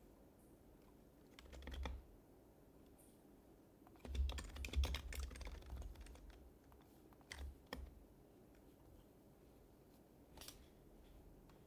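Typing on a Happy Hacking Keyboard Professional HYBRID Type-S with its silenced Topre switches, keys clacking in short bursts separated by pauses. The longest and loudest run of keystrokes comes in the middle, with a few brief bursts after it.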